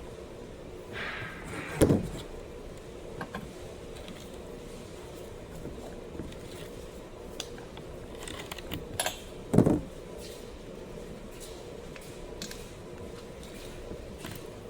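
Hand tools and chainsaw parts being handled while a new spark plug is fitted to a Stihl MS 250 chainsaw: small clicks and clinks, with two louder knocks, one about two seconds in and one a little past the middle, over a steady low hum.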